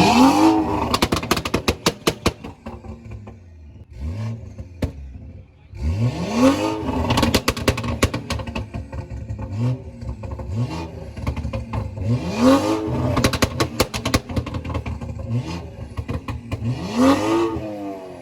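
A car engine being revved hard again and again, its pitch rising and falling in quick blips, with many sharp cracks and pops between the revs.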